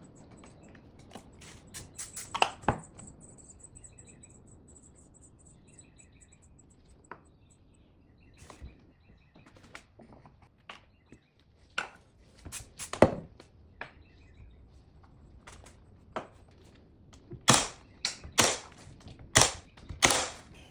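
Scattered sharp knocks and clicks, like work being done with hand tools and hardware, with a run of louder knocks near the end. Faint short high chirps repeat a few times in the first half.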